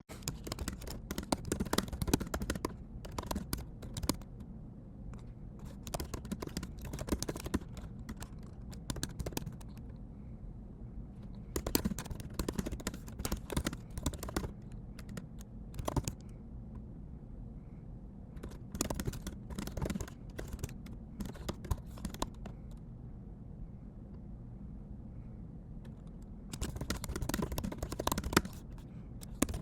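Typing on a computer keyboard in bursts of quick key clicks a few seconds long, broken by pauses, over a steady low hum.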